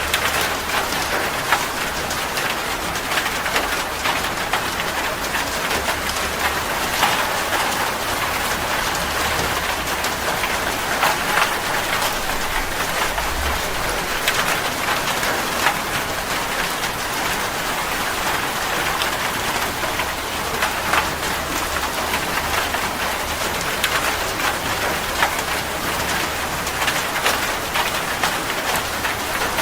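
Steady rain falling on a surface: an even hiss with many individual drops ticking and pattering through it.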